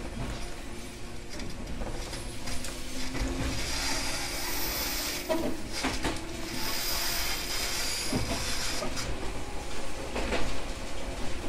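Running sound inside a JR 123 series single-car electric railcar between stations: a steady rumble of wheels on the rails, with a few knocks from rail joints and a high hiss that swells twice in the middle.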